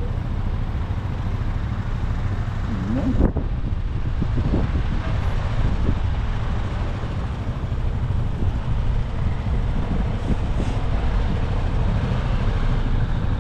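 Heavy trucks' engines running with a steady low rumble, and a short sharp knock about three seconds in.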